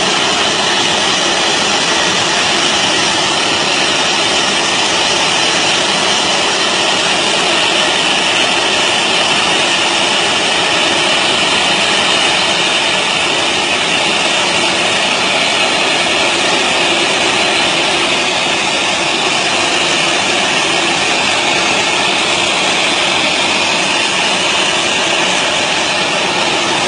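Steady, loud roar of a jet airliner running on the ground, with a high whine band over a broad rush, unchanging throughout.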